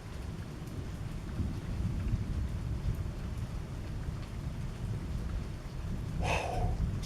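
Thunderstorm: rain falling under a continuous low rumble of thunder. A short, higher sound stands out briefly about six seconds in.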